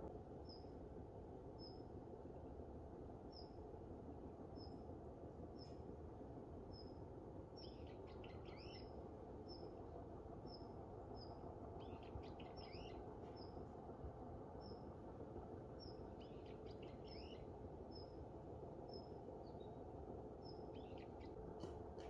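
Small songbirds calling: one repeats a single short, high note about once a second throughout, while a short, lower chattering phrase comes four times. Under them lies a steady, faint background hiss.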